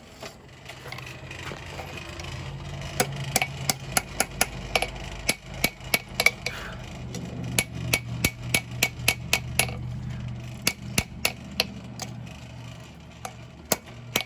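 Hand-forging a knife blade: a blacksmith's hammer strikes hot steel on an anvil, each blow ringing sharply, about two to three a second with a short pause near the end. A steady low hum runs underneath.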